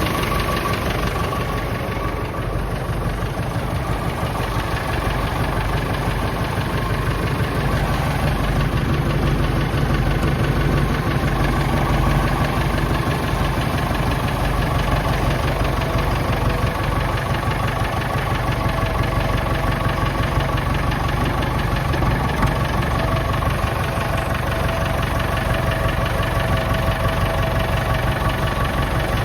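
Nuffield 10/60 tractor's diesel engine idling steadily.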